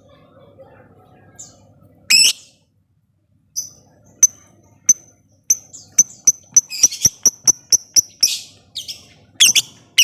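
Lovebird calling: a harsh screech about two seconds in, then the fast "ngetik" ticking call, short sharp chirps at about four a second from halfway on, broken by a couple more harsh screeches near the end.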